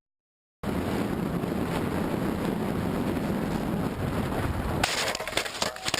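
Steady road and engine noise of a moving car, as picked up by a dashcam, starting after a brief silence. Near the end comes a rapid run of clicks and knocks.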